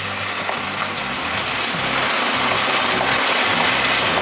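Mutton and potato curry sizzling in oil in a frying pan as it is stirred, its water cooked off so the masala fries in the released oil; the sizzle grows a little louder about two seconds in. Background music with low held notes plays under it.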